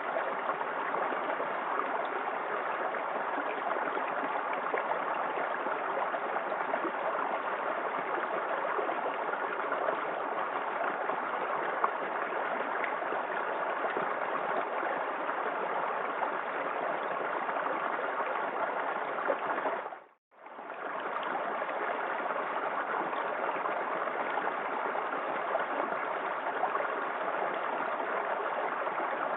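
Small waterfall in a forest creek: steady rushing and splashing of running water. About twenty seconds in it cuts out for a moment and fades straight back in.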